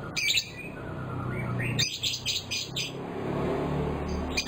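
Lovebird chirping in quick bursts of sharp, high chirps: a short burst near the start, a rapid run of several chirps about two seconds in, and another burst near the end, over a steady low hum.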